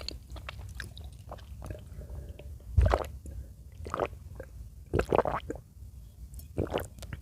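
Close-miked eating of chicken in cream sauce: wet chewing and mouth smacks, irregular, with a few louder squishy bites about three, four, five and near seven seconds in.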